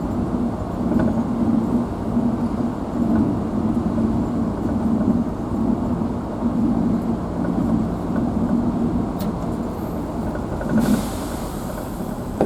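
Safari vehicle's engine running steadily while driving, heard from inside the cab, its hum swelling and easing. A short hiss sounds near the end.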